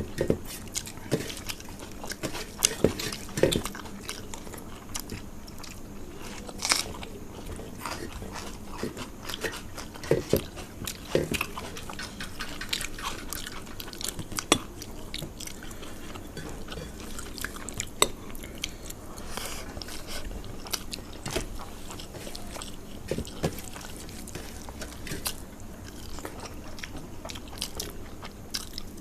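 Close-miked eating: chewing and biting with crunches and many short, sharp clicks and smacks scattered irregularly throughout.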